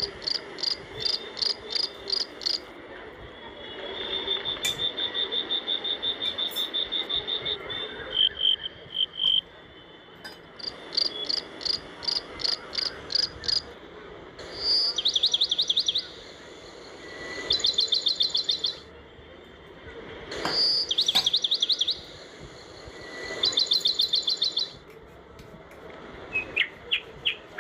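Bird song: high chirps in quick series and fast trills, with a phrase of one high note and a rapid trill repeating about every three seconds in the second half.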